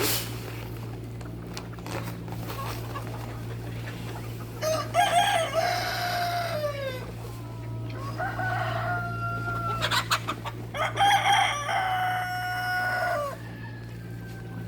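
A rooster crowing twice, each crow long and ending in a falling note, with a shorter call between them. A steady low hum runs underneath.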